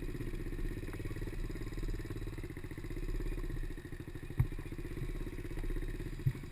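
Small single-cylinder engine of a Chinese PY90 pit bike running under steady throttle as it is ridden, with a couple of sharp knocks, one about four seconds in and one near the end.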